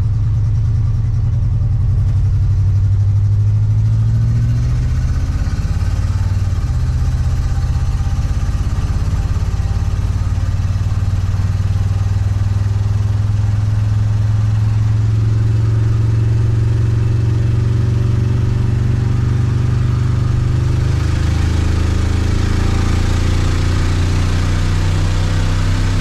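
Oldsmobile 350 V8 running while the car is driven, heard from inside the cabin, pretty loud. The engine note holds steady, climbs in pitch over several seconds past the middle, then falls back as road and wind noise swell near the end.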